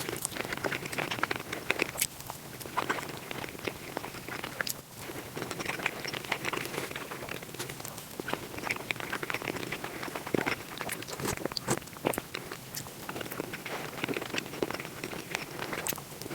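Close-miked eating sounds played back sped up: rapid, dense crunching, biting and chewing.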